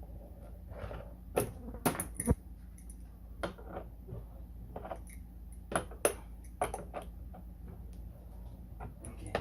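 Scattered light clicks and knocks of wrenches and plastic parts being handled at a toy ride-on truck's wheel axle nut, over a low steady hum.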